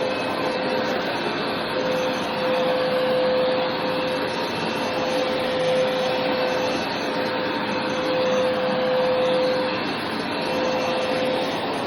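Hoover carpet-cleaning machine running steadily: a constant motor whine over a rushing of air, its level rising and falling gently a few times.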